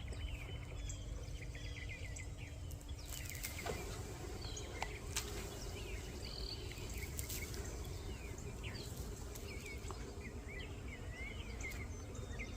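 Songbirds chirping again and again over a low rumble, with the hum of a honey bee swarm in flight beneath them that grows fuller about four seconds in.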